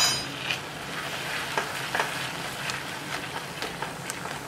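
Tomato-onion masala sizzling in a stainless steel pot as a spatula stirs in freshly added ground spices, with scattered small scraping ticks; a short ringing tap right at the start. The masala is being fried until the fat separates.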